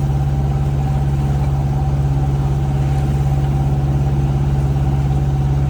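A sailboat's auxiliary engine running steadily under way, a constant low drone with no change in speed.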